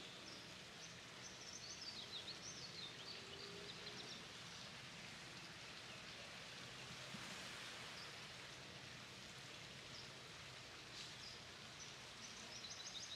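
Quiet outdoor ambience: a faint steady hiss, with faint high bird chirps in short runs about a second in and again near the end.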